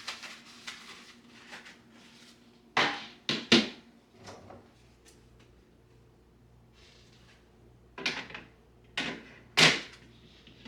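Three short knocks or clunks in quick succession, then three more about five seconds later, over a faint steady background.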